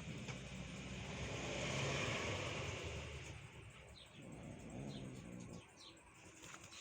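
A vehicle passing by, its noise swelling to a peak about two seconds in and then fading away. In the second half there are a few short, high chirps.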